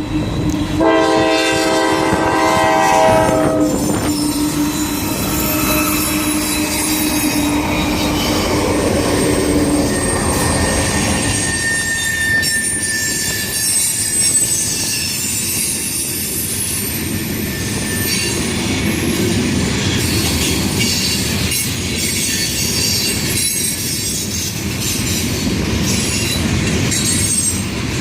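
Train horn sounding a loud chord about a second in, fading to one held low note, then a passing train with its wheels squealing and clattering over the rail joints.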